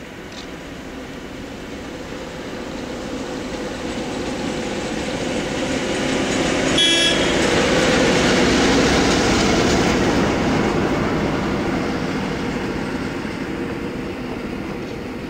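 Electric locomotive-hauled passenger train passing at speed. The sound swells as it approaches, is loudest in the middle as it goes by, then fades away. About seven seconds in there is a brief high-pitched tone.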